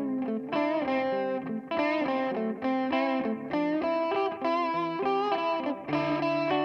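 Electric guitar played through a Donner Yellow Fall delay pedal: a continuous melodic line of single notes, some bent or with vibrato.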